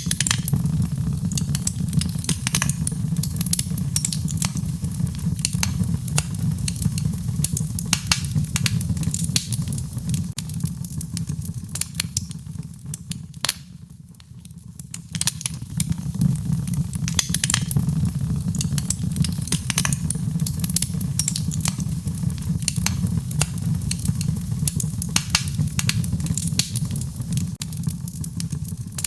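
Wood fire burning in a fireplace: a steady low roar of flame with frequent sharp crackles and pops. The fire goes briefly quieter about halfway through, then picks up again.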